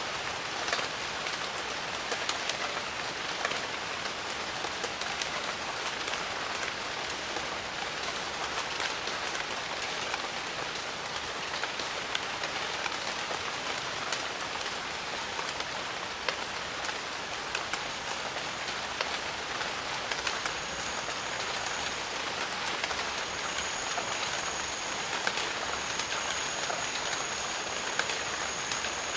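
Steady jungle rain, an even hiss of falling water with many sharp individual drop hits close by. Over the last third a thin, high steady tone comes in and out above the rain.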